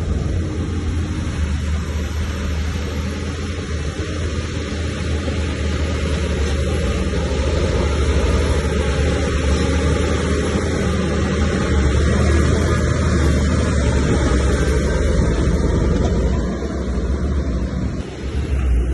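Heavy earthmoving machinery's diesel engine running steadily under load, with a strong low drone; it eases off briefly near the end.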